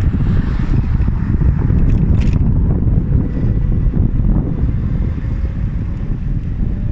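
Wind buffeting the microphone while riding, a steady low rumble, with a brief click about two seconds in.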